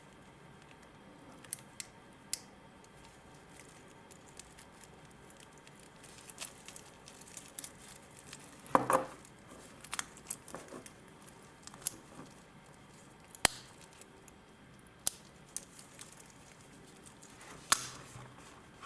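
Stainless steel watch bracelet being handled: scattered sharp clicks and light metallic clinks, with a longer rattle about nine seconds in.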